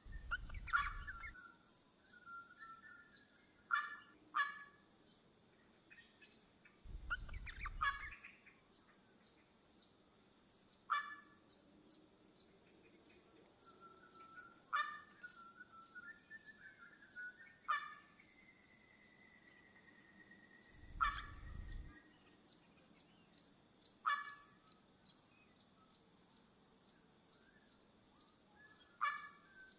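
Birds calling: sharp calls repeat about every three seconds over a fast, steady high chirring, with a few whistled notes and one long held whistle about two-thirds of the way through. Three brief low rumbles break in, near the start, about a quarter of the way in and about two-thirds of the way in.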